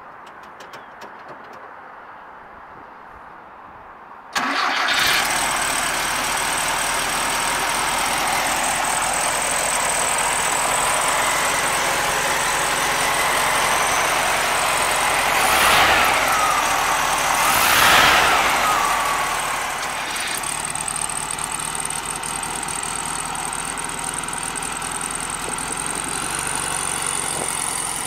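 Volkswagen Karmann Ghia's air-cooled flat-four starting about four seconds in. It runs fast at first, is revved twice in quick succession, each rev rising and falling in pitch, and then settles to a steadier idle.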